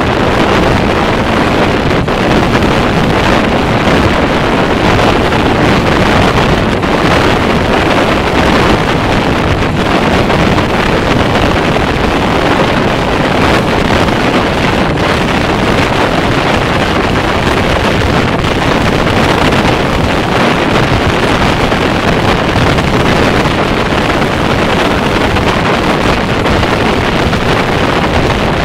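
Passenger train running at speed, heard from outside a coach window: a loud, steady rush of wind on the microphone over the rumble of the wheels on the rails.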